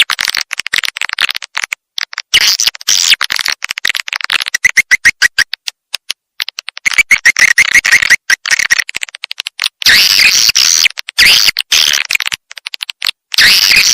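Swiftlet calls: rapid, high twittering chirps and clicks in bursts of a few seconds with short breaks, some with a trill. This is a swiftlet lure call, played at swiftlet houses to draw the birds in to roost and nest.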